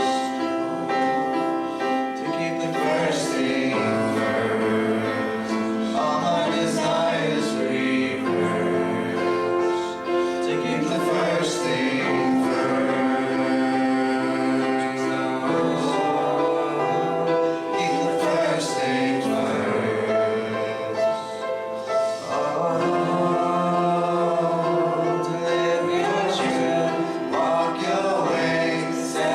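Worship singing by a group of voices: a slow song with long held notes.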